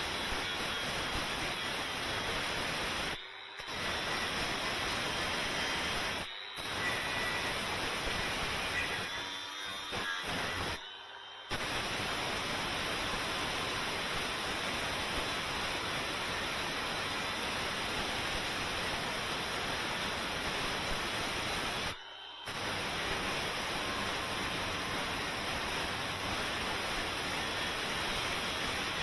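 Steady hiss of a compressed-air spray or blast tool working, cutting out sharply for a moment five times as the trigger is let go.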